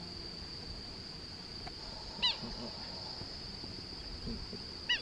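Steady high-pitched insect drone, with a bird's short loud call about two seconds in and another right at the end.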